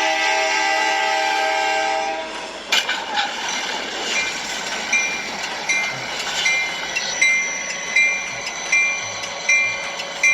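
Train horn sounding a steady chord, cutting off about two seconds in. Then a sharp knock, and a short bright ding repeating about every three-quarters of a second over a steady rumble of the train.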